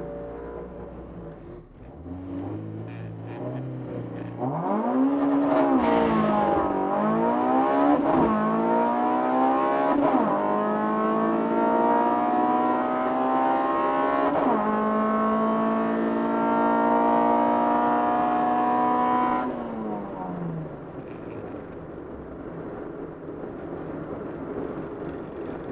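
Car engine accelerating hard through the gears, its pitch climbing and dropping back at each of about four quick upshifts. It then pulls high and steady for about five seconds before the throttle is lifted near the end and it winds down.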